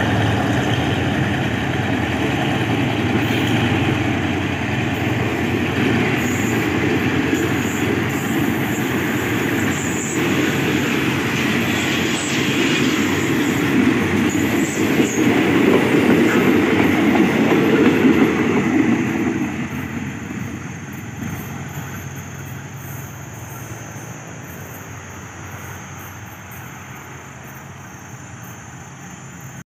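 State Railway of Thailand passenger train passing on the next track, carriage wheels running loudly over the rails. About two-thirds of the way through, as the last carriages go by, the sound fades steadily while the train draws away.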